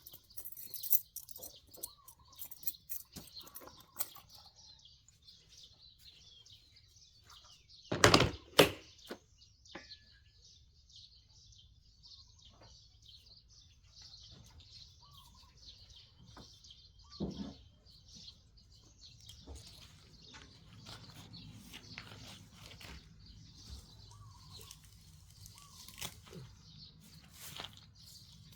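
Outdoor ambience: birds chirping now and then over a steady faint high hiss, with two loud knocks or handling sounds about eight seconds in and a shorter one a little past seventeen seconds.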